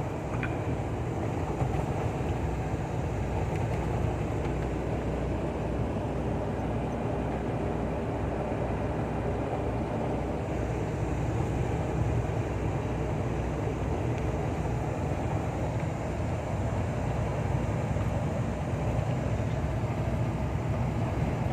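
Steady engine and road noise of a truck on the move.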